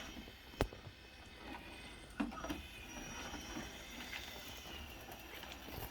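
Faint whine of a Roomba S9+ robot vacuum's motors as it works its way onto its charging dock, with a sharp click about half a second in and a knock about two seconds in.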